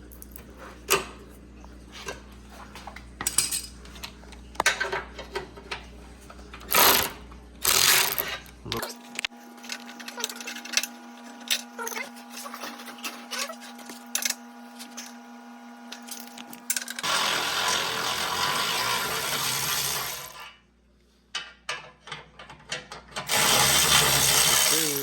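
Metal clinks and knocks of hand tools working on a car's front end, then two loud bursts of a power tool, the first about three seconds long and the second about two seconds, near the end.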